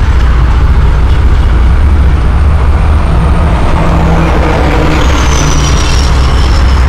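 Steady loud low rumble of a freight train's container cars rolling across a road bridge, mixed with road traffic. In the second half a cement mixer truck passes close by, and a thin high whine slides slightly down in pitch.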